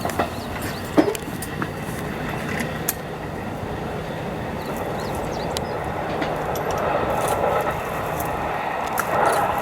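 Electric commuter train running on the line: a steady rumble and hum with scattered short clicks, swelling in the last few seconds.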